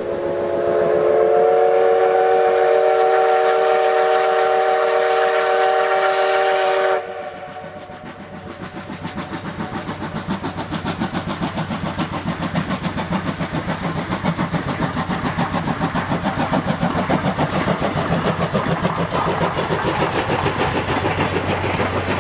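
C11 207 steam tank locomotive sounding its whistle: a loud chord of several pitches held for about seven seconds, then cut off sharply. After the whistle, the locomotive's rapid exhaust beats and running train noise grow louder as it approaches.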